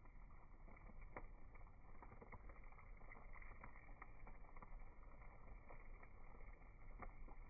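Wood fire burning in a Uniflame wood grill, faint irregular crackles and pops over a low steady hiss.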